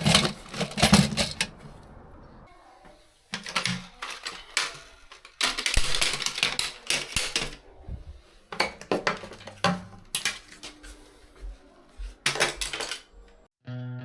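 Small hard plastic and metal cistern repair parts being handled and set down, clattering and clicking in several short spells.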